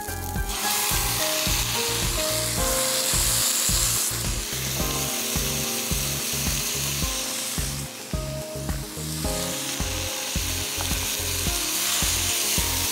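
Chicken pieces sizzling as they go into hot oil with browned onions in a frying pan and are stirred. The sizzle starts about half a second in, dies down briefly around eight seconds, then picks up again.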